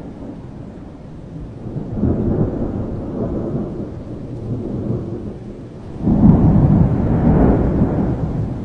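Thunder rumbling over steady rain: a rumble swells about two seconds in, and a louder, longer one rolls in about six seconds in and fades near the end.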